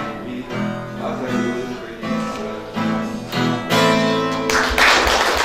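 Acoustic guitar strumming chords in the song's instrumental ending, with a louder full strum about four and a half seconds in that rings on.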